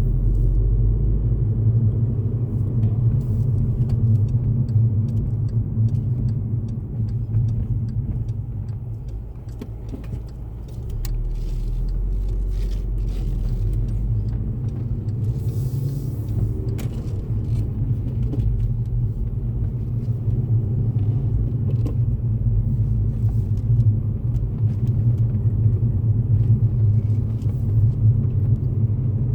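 2012 Volkswagen GTI's 2.0-litre turbocharged engine running with a steady low sound, which eases off for a few seconds around the middle and then comes back up.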